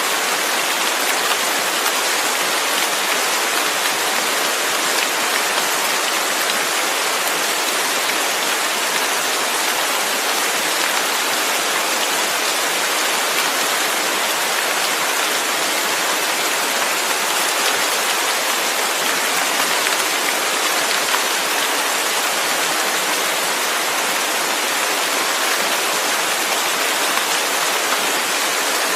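Steady rain falling, an even unbroken hiss of rain on surfaces with no thunder or pauses.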